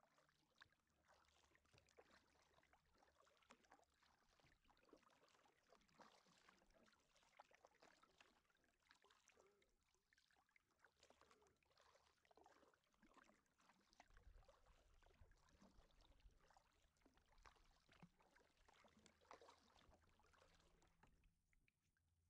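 Faint kayak paddling: small irregular splashes and drips of a paddle dipping in river water.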